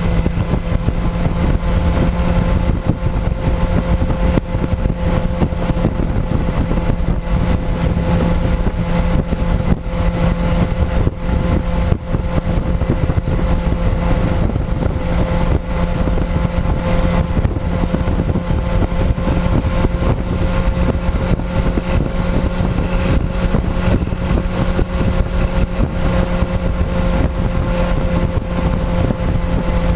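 Motorcycle engine running at a near-steady pitch while riding, heard close up from the fuel tank, with wind rushing over the microphone.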